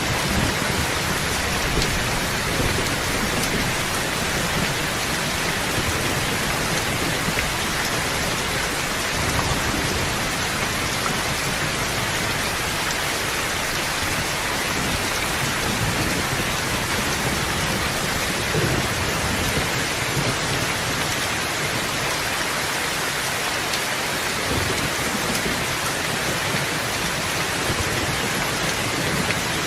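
Steady rain falling as an even hiss, with low rumbles of thunder now and then.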